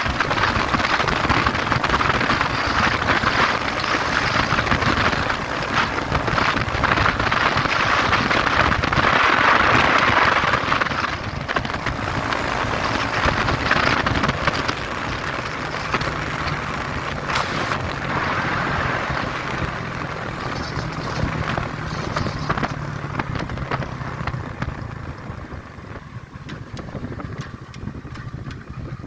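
Wind buffeting the microphone over a motorcycle engine running while riding. The wind noise eases off in the last few seconds.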